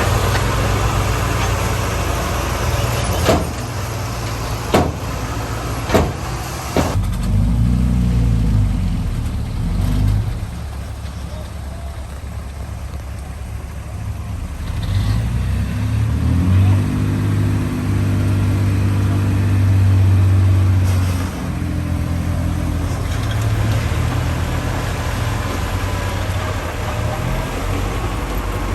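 Heavy diesel earthmoving machinery running: a low engine drone that twice revs up and works harder under load. Several sharp metal clanks come in quick succession a few seconds in.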